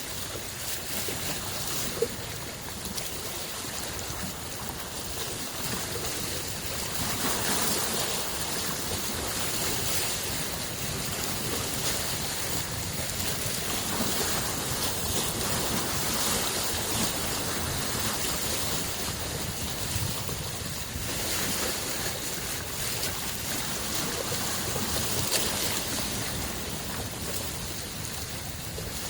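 Small waves on a freshwater lake washing onto the shore, a steady wash that swells and eases every several seconds. One sharp tick sounds about two seconds in.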